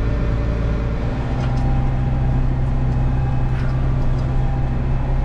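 Farm machine's diesel engine running steadily under load, heard from inside the cab as a constant hum that grows a little stronger about a second in.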